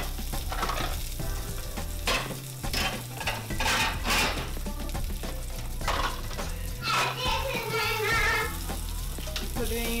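Sausage patties frying in a skillet: a steady sizzle with short clicks and crackles all through.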